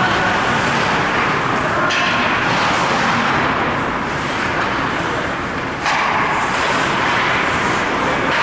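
Steady, loud ice hockey rink noise with no clear speech. Sudden sharp sounds break in about two seconds in and again about six seconds in.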